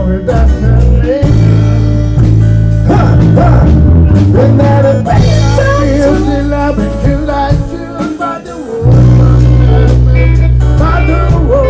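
Live band music with a singer: a wavering sung melody over a heavy bass line. The low end drops away for about a second near the end, then comes back in.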